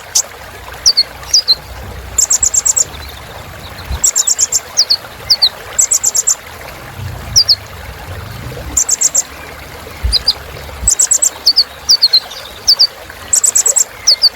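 Sunbird known in Indonesia as kolibri ninja singing: quick runs of five or six very high notes repeated about every two seconds, with short falling chirps between them.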